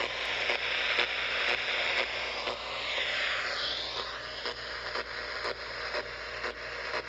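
Static hiss from an HF ham radio receiver, broken by regular clicks about twice a second, with a whistling tone that swoops down and back up about three seconds in. It is radio-frequency interference from a small plug-in transformer cell phone charger: it goes away when the charger is unplugged.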